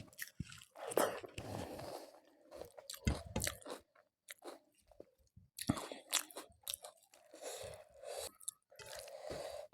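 Close-miked eating: irregular crisp crunching bites and chewing, with the crackle typical of papad broken between the teeth.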